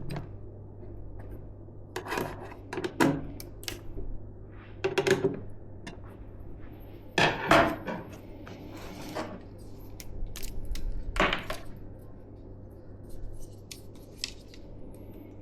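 Hands handling computer parts and their packaging: scattered clicks, taps and small clattering knocks of hard plastic and metal, a few seconds apart, over a steady low hum.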